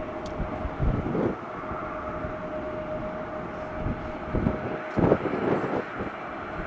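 Jet aircraft engines running at a distance, with a steady whine that stops about five seconds in, over a rushing background. Gusts of wind buffet the microphone.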